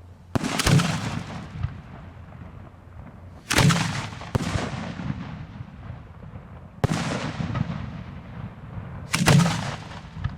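Aerial fireworks booming close by: about five sharp reports a couple of seconds apart, each trailing off in a fading crackle and rumble.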